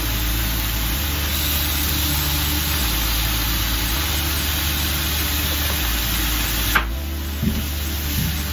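Beef shank frying in oil with garlic and ginger in a stainless-steel wok: a steady sizzle, with a brief click about seven seconds in.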